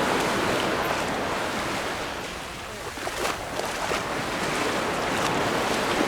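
Sea waves breaking and washing up the beach. The surf swells, eases off about two and a half seconds in, then builds again with the next wave.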